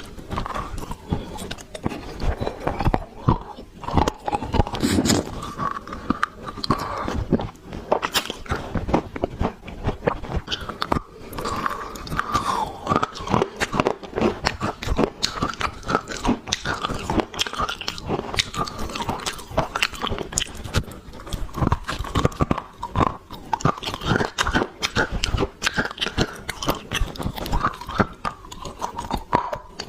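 Dry black clay being bitten and chewed close to the microphone: dense, irregular crunching and crackling that keeps going without a break.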